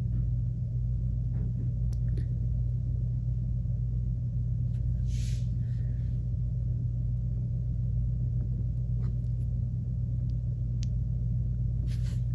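A steady low hum throughout, with a few faint scratches and taps of a tool scoring soft clay, and one brief scrape about five seconds in.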